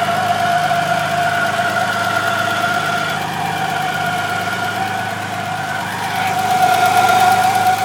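BMW E21 engine running steadily with a strong, steady high whine over it: the strange noise that shows up once the engine is hot. The whine eases a little midway and comes back louder near the end.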